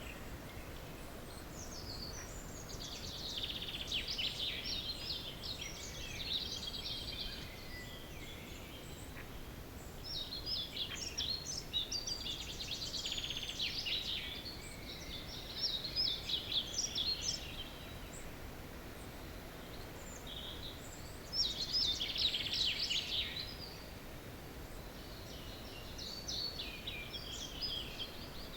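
Songbirds in a dawn chorus, singing short phrases of about two seconds each, five or so in turn with brief pauses between, over a steady low background rumble.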